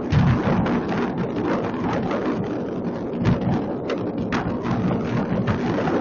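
Fireworks going off in a dense barrage: many overlapping bangs and crackles over a continuous rumble, with heavier booms just after the start and about three seconds in.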